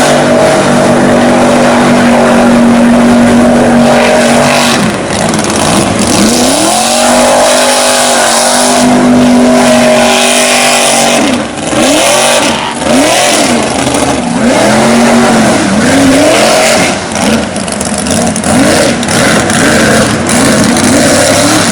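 Toyota mega mud truck's engine run hard at high revs through deep mud, held steady for the first half. In the second half it revs up and down again and again as the throttle is worked, over a constant rush of tyres churning mud.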